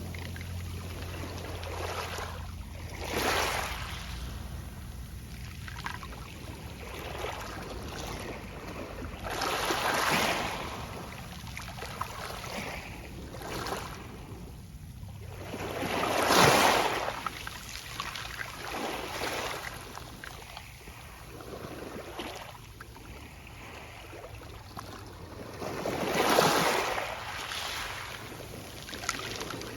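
Small sea waves breaking and washing up a pebble beach, with the pebbles rustling as the water runs back. Each wave swells and fades over a second or two; the larger ones come every six to seven seconds, the loudest about halfway through and another near the end.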